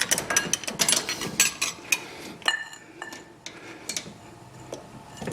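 Metal hand tools clicking and clinking as a ratchet and socket are handled, with a quick run of clicks over the first two seconds and a single ringing metal clink about two and a half seconds in.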